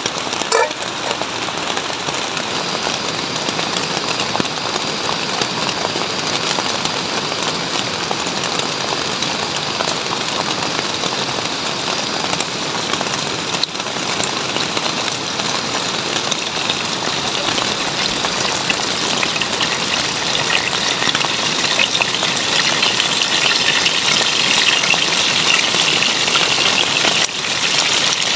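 Heavy rain falling steadily, growing a little louder toward the end.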